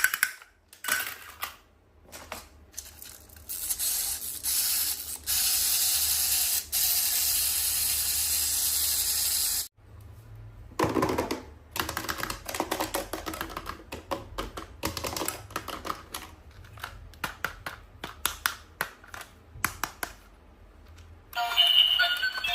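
Toys and their plastic packaging being handled up close: a run of small clicks and taps, with a steady hiss lasting several seconds in the first half that stops suddenly.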